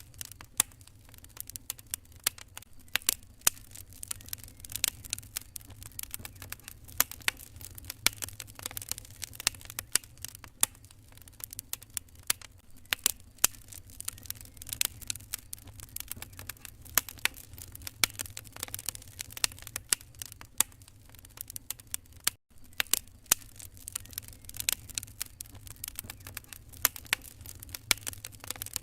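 Wood fire crackling and popping in a fireplace: a constant scatter of irregular sharp snaps over a low steady rumble, with a split-second break in the sound about three quarters of the way through.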